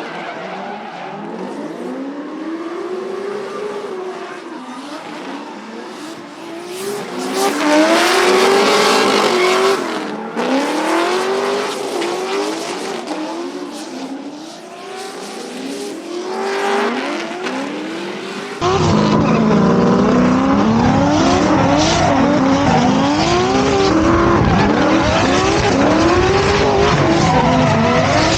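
Drift cars on track, engines revving hard with pitch rising and falling over and over between gear changes, over tire squeal as they slide. About two-thirds of the way through, the sound cuts to a louder, fuller recording of the same kind of driving.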